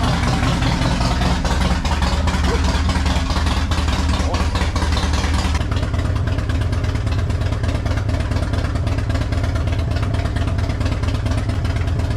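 Harley-Davidson Fat Bob's V-twin engine idling loudly in a garage just after being started. About halfway through, the upper hiss thins while the low rumble holds steady.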